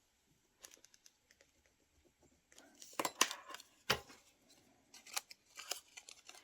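Scissors cutting paper: a few faint snips, then louder, sharper cuts in the second half with short pauses between.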